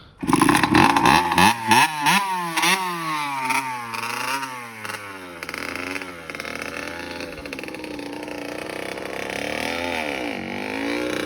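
A Kawasaki KX60 dirt bike's small two-stroke engine comes in loud right at the start and is revved up and down sharply several times over the first few seconds. It then runs steadier, with slower rises and falls in pitch as the bike is ridden.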